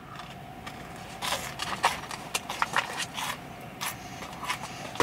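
Chewing of cold but still crispy mini donuts close to the microphone: a run of irregular crunches that starts about a second in.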